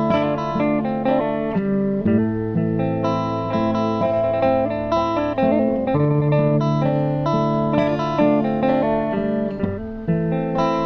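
Amplified music: a plucked-string instrument plays a quick melody over held low notes, coming through a sound system under test.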